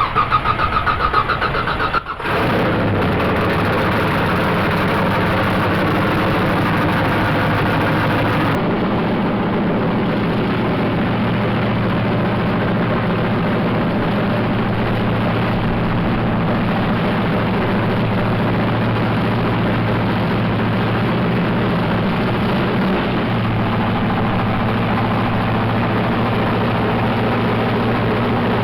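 Car engine cranked over and catching about two seconds in, then settling into a steady idle.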